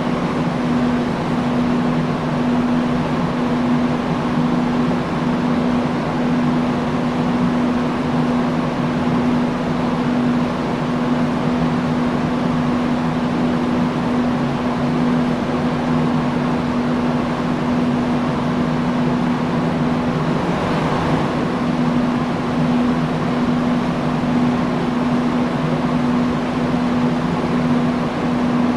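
Industrial fan running steadily: an even rush of moving air with a constant motor hum underneath.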